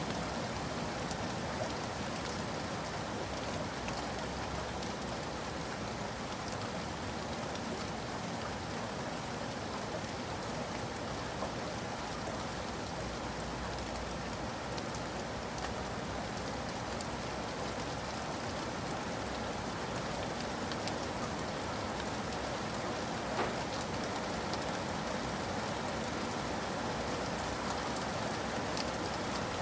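Steady heavy rain falling, with many small drops pattering on surfaces and an occasional louder drop.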